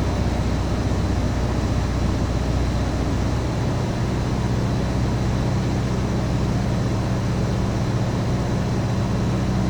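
Cessna 150's Continental O-200 four-cylinder engine and propeller droning steadily in flight, its pitch shifting slightly about three and a half seconds in.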